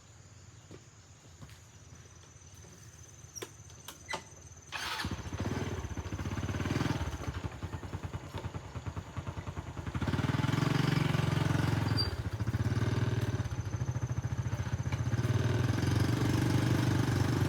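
A few clicks, then a vehicle engine starts about five seconds in and keeps running, getting louder about ten seconds in.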